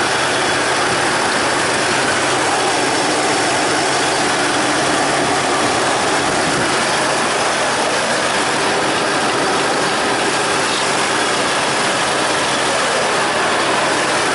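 Toyota 4Runner V6 engine idling steadily, heard close up in the engine bay, while its ignition coils are wet down with water to provoke a misfire.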